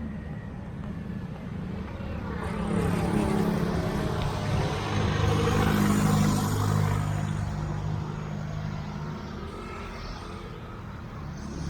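Road traffic: a motor vehicle's engine passes close by, growing louder over a few seconds, loudest about halfway through, then fading away.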